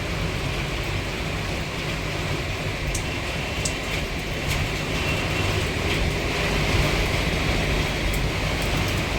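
Steady heavy rain noise with a low rumble of passing traffic underneath.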